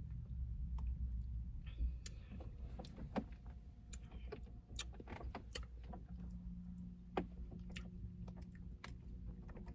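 Faint scattered clicks and taps of a spoon and cup while eating a Blizzard, over a low steady hum.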